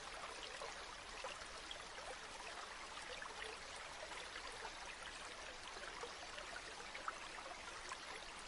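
Gently flowing river water, a steady babbling trickle with small splashes throughout and one slightly louder splash about seven seconds in.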